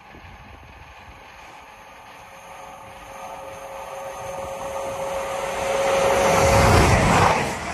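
CrossCountry Voyager diesel passenger train approaching at speed. Its sound builds steadily from faint to loud, with a steady hum that grows with it and peaks near the end.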